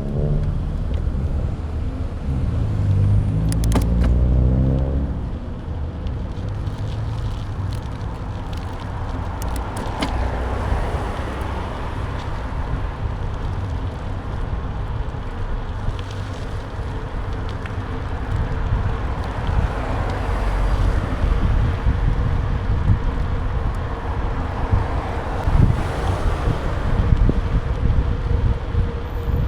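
Riding noise picked up by a camera mounted on the bike: steady low rumble of wind and road. A few seconds in, an engine revs up, rising in pitch, then drops away.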